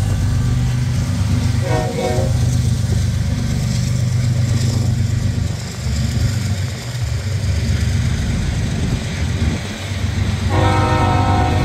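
Union Pacific freight train passing: a steady low rumble from the locomotives and rolling boxcars. A short blast of the locomotive horn comes about two seconds in, and the horn sounds again, held, for about the last second.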